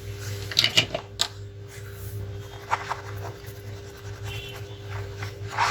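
Small tools clicking and scraping against a laptop motherboard during repair work, in short bursts with a cluster of sharp clicks near the start, over a steady low electrical hum.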